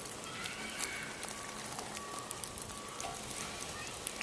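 Steady patter of many small drops with scattered ticks: meltwater dripping from snow and ice.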